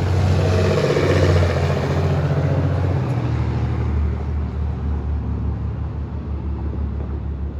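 A motor vehicle's engine running close by with a low steady hum, loudest about a second in and slowly fading.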